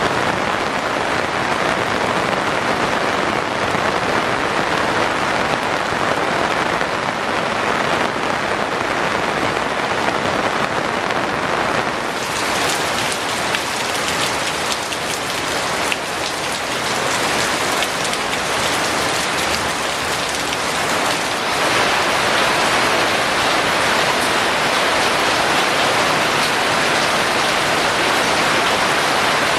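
Steady rain falling, an even hiss of drops. It grows a little louder about two-thirds of the way through.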